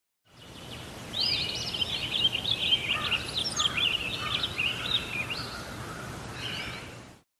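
Songbird singing a rapid, continuous run of chirps and warbles over a steady low hum of background noise, fading in at the start and out near the end.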